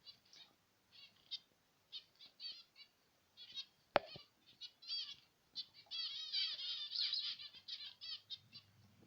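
A colony of zebra finches calling, a quick run of short, nasal chirps that come thick and overlapping about two-thirds of the way through. A single sharp click about four seconds in.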